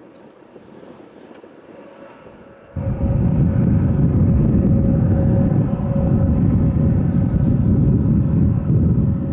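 Airbus A321neo jet engines. A faint engine rumble jumps abruptly, about three seconds in, to loud, steady jet noise with a whine, typical of a takeoff roll at high thrust.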